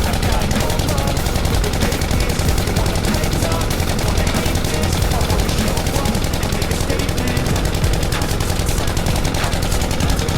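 Loud exhaust of a Royal Enfield Continental GT 650's parallel-twin engine, running with a rapid, even pulsing.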